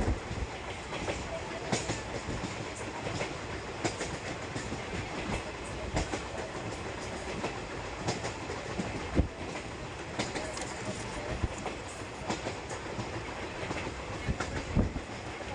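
Indian Railways passenger train running at speed, heard from aboard the coach at an open door or window: a steady rumble of the coach with irregularly spaced clicks and knocks of the wheels over the rail joints.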